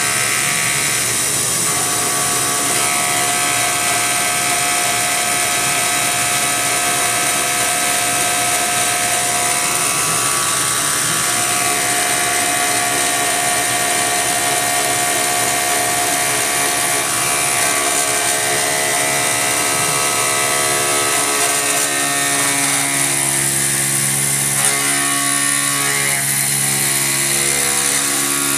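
CNC milling machine with a belt-drive spindle, its insert cutter roughing a part: a steady machining whine with many high ringing tones. Lower humming tones join about 22 seconds in.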